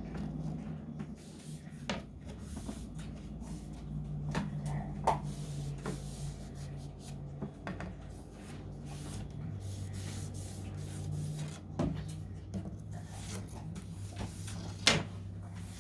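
Scattered light knocks and clicks of small wooden trim pieces being handled and fitted, the sharpest one near the end, over a steady low hum.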